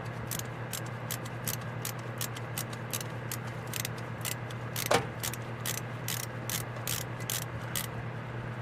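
A hand tool clicking in a quick, even run, about four small metallic clicks a second, while the main jets are worked out of an Edelbrock 1406 four-barrel carburetor. One louder click with a short ring comes about five seconds in.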